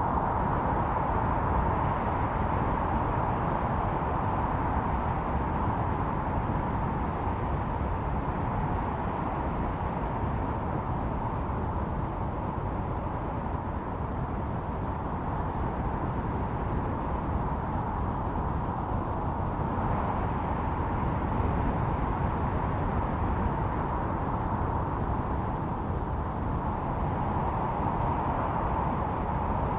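Snowstorm wind howling steadily: a continuous rushing hiss with a whistling note in the middle that slowly swells and eases.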